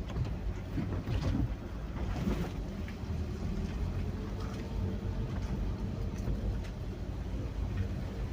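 Rain and wind heard as a steady low rumble, with wind buffeting the microphone and a faint steady hum underneath.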